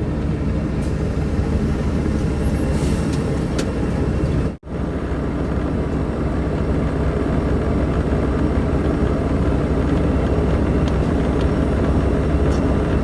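Steady cabin noise inside a Boeing 777-300ER: a low rumble and air hiss, with a few faint clicks. The sound drops out abruptly for a moment about four and a half seconds in.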